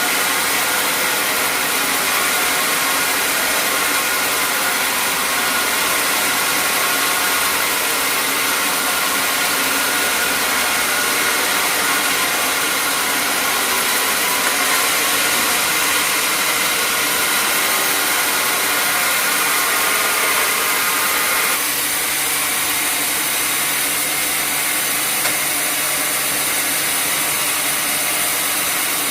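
Sawmill machinery running steadily, a dense mechanical hiss with a constant hum. About two-thirds of the way through the sound changes suddenly, the upper hiss thinning and a lower hum taking over.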